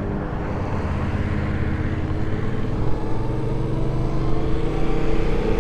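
Motorcycle engine running steadily while riding, its note shifting slowly in pitch with the throttle, over a constant rush of wind and road noise.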